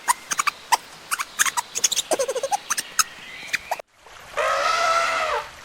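Animal calls: a rapid run of short, high squeaks and clicks, then after an abrupt cut a single drawn-out call about a second long that rises and falls in pitch.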